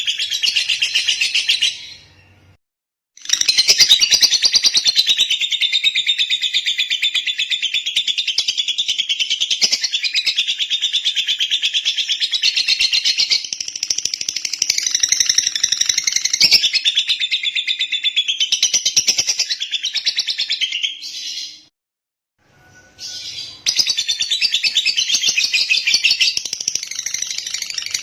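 Lovebird singing in long runs of rapid, high-pitched chattering trills. It breaks off briefly about two seconds in and again about twenty-two seconds in.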